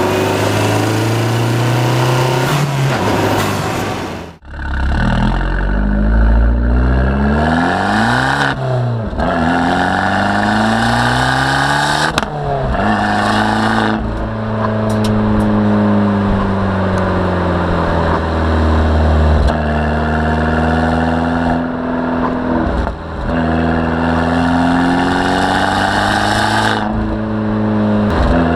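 Abarth 595 Turismo's 1.4-litre turbocharged four-cylinder engine pulling hard, its pitch climbing in rising sweeps and dropping back as it shifts. There is a sudden break a little after four seconds, and the second half is slower rises and falls in engine speed.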